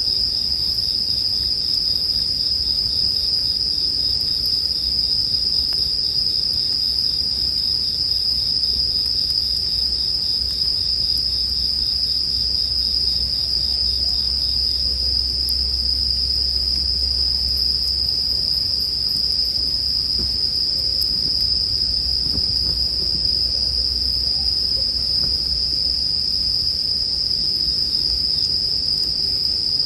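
Japanese bell crickets (suzumushi) singing in a steady, unbroken high-pitched chorus. A few faint crackles from a campfire and a low rumble lie underneath.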